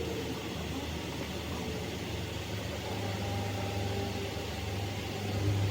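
A vehicle engine running steadily with a low hum, getting somewhat louder about three seconds in.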